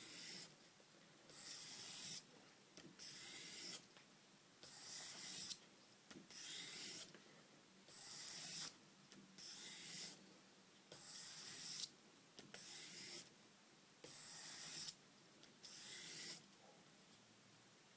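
Opinel No. 8 knife blade drawn across 1200 grit sandpaper in edge-trailing stropping strokes. Each stroke is a faint, short, hissing scrape, about a dozen of them at an even pace, alternating sides to put a convex edge on the blade.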